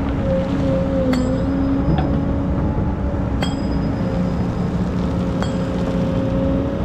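Excavator's diesel engine running steadily with a droning whine, broken by about four sharp metallic clinks.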